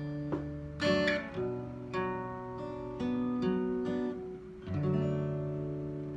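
Acoustic guitar strumming chords, ending on a final chord that is left ringing and slowly dies away.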